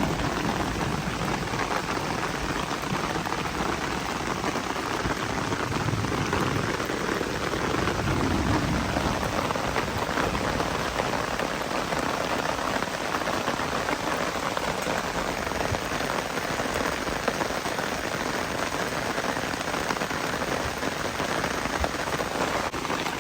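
Steady rain falling on the fabric of a hammock tent during a thunderstorm, an even, unbroken patter.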